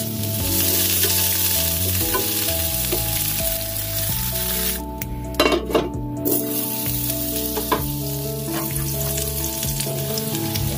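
Food frying and sizzling in a pan while it is stirred. The sizzle drops away briefly in the middle, with a few sharp clinks of a utensil against the pan.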